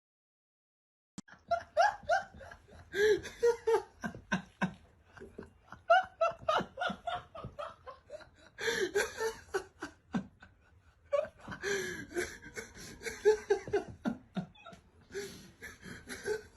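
A person laughing hard in repeated bursts with short breathy gaps, starting about a second in.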